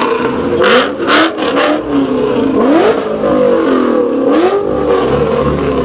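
A car engine revved hard three times as it drives past, the pitch climbing and dropping with each rev, with a few sharp cracks early on.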